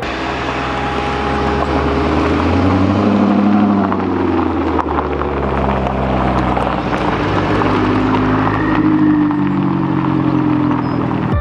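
Car engine running at low revs, steady with a couple of gentle rises and falls in pitch.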